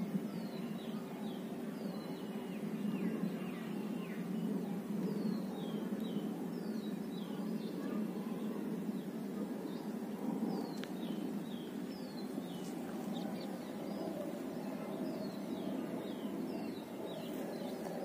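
Short, high bird chirps, each falling quickly in pitch, repeated irregularly throughout over a steady low background rumble.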